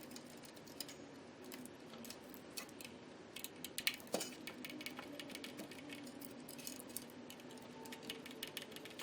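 Faint, irregular light clicks and ticks of small screws and parts being handled during ventilator disassembly, with one louder tap about four seconds in.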